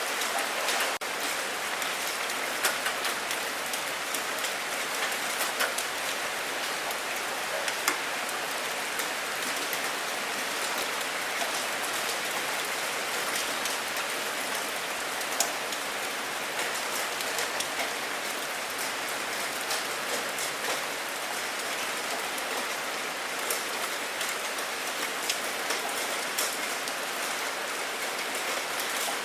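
Steady rain falling on a surface, with individual drops ticking sharply over an even hiss.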